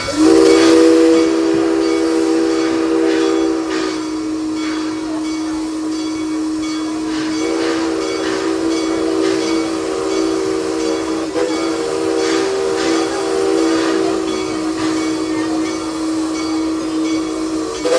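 Steam locomotive's chime whistle blown in one long continuous blast, several notes sounding together as a chord. A note or two drops out for a few seconds in the middle and the full chord returns before it cuts off.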